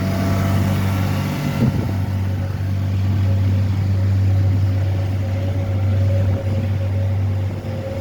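Steady engine drone from nearby snow-clearing machinery, a low hum that holds level throughout, with a faint higher tone joining about halfway through.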